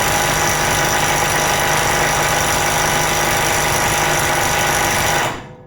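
Parkside Performance PPDSSA 12 A1 12V cordless impact wrench hammering continuously on a bolt it cannot break loose at 432 Nm, then stopping near the end.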